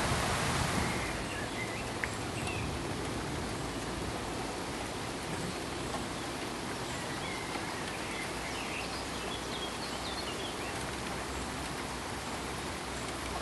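Steady pink noise, an even hiss with no rhythm or tones, easing slightly about a second in.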